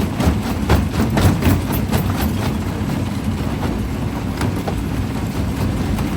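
Primary jaw crusher running with a steady low drone, with irregular cracks and knocks of rock breaking between the jaws. The knocks come thick and fast for the first two seconds or so, then thin out to an occasional one.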